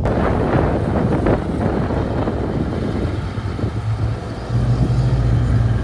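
A motor vehicle engine running, a low steady rumble with a hum that grows louder about four and a half seconds in.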